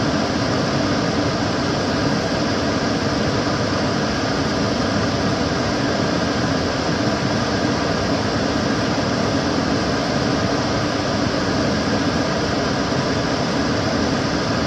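Kitchen cooker hood extractor fan running steadily: an even rush of air with a low hum underneath, holding one level throughout.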